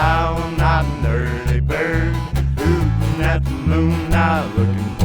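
Acoustic folk trio playing an instrumental break: strummed acoustic guitar over a pulsing bass line, with a melodic lead line on top.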